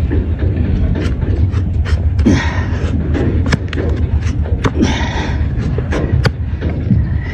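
Hoof-trimming tools cutting into a donkey's hoof: a string of sharp clicks and snaps over a steady low rumble, with two longer rasping scrapes, about two seconds in and again near the middle.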